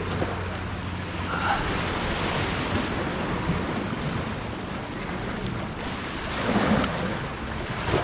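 Ocean waves washing in and breaking, with wind buffeting the microphone; a louder wash about six and a half seconds in.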